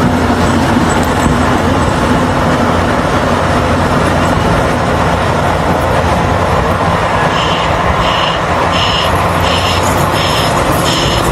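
A motor vehicle's engine running steadily with a low hum. About seven seconds in, a high beep starts repeating about every 0.7 seconds.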